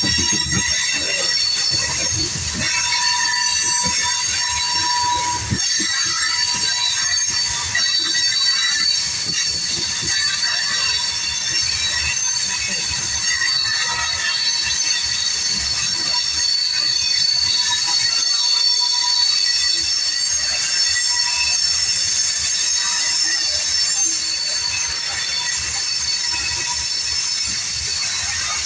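Freight cars of a manifest train rolling past, their steel wheels squealing in several steady high-pitched tones, with some low knocking from the wheels and cars in the first few seconds.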